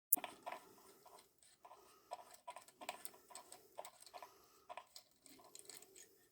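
Irregular metallic clicks and clinks of hand tools and loose parts being handled while the motorcycle engine is worked on, several a second, with one sharp click at the very start.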